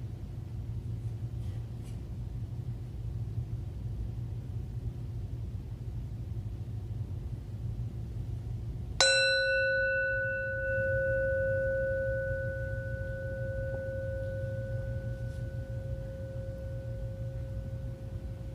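A steady low rumble, then about halfway through a singing bowl is struck once, marking the end of a moment of silence. It rings on with a clear tone; its higher overtones fade within a few seconds while the low tone keeps sounding.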